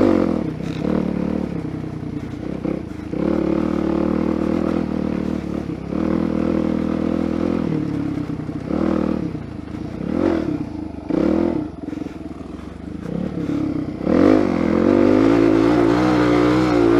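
Suzuki DR-Z400SM single-cylinder four-stroke engine under way. It runs steadily for a few seconds, is blipped up and down several times, then climbs to sustained higher revs about 14 seconds in.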